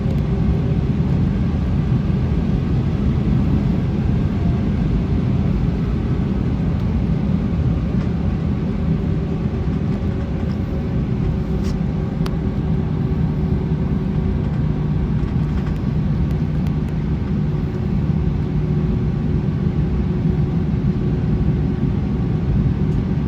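Steady low rumble in the cabin of an Airbus A321 on the ground before takeoff, its engines running at idle, with a faint steady hum over it and a couple of light clicks about halfway through.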